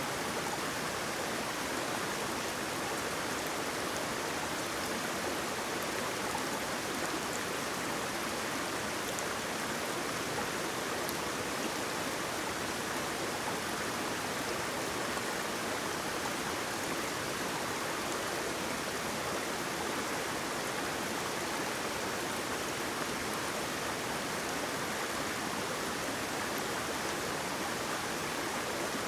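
Waterfall pouring steadily: an even, unchanging rush of water.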